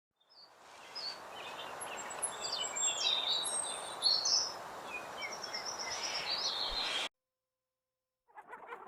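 Small birds chirping and singing, quick high whistles and trills over a steady background hiss, cutting off suddenly about seven seconds in. After a second of silence, a different, lower rustling animal sound begins near the end.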